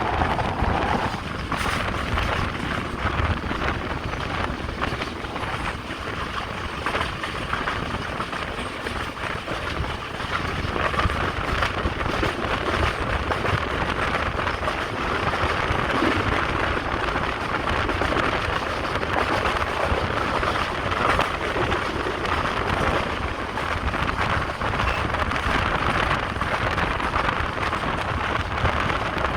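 Passenger train running along the track: a steady rumble and rush of air from on board.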